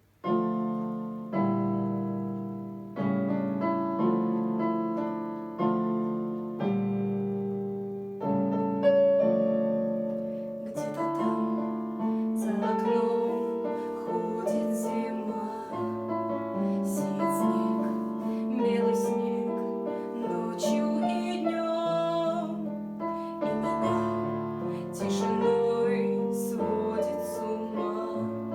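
Piano playing a slow introduction: struck chords that ring and fade, with a busier melody line joining about eight seconds in.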